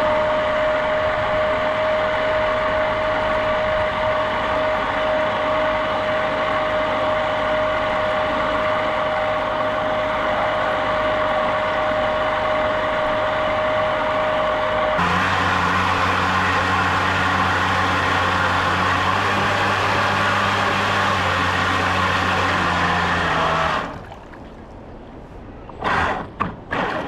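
Jet boat's motor running steadily with a high, even whine, switching abruptly about halfway through to a deeper hum. It cuts out near the end, leaving a few short, sharp sounds.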